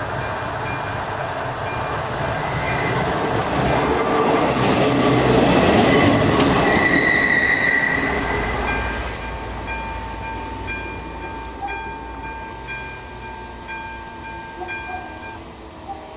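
ČD class 814 RegioNova diesel railcar passing over a level crossing, loudest a few seconds in, with a high steady squeal, then fading away. The crossing's electronic warning bell rings on in an even repeating pattern and stops shortly before the end.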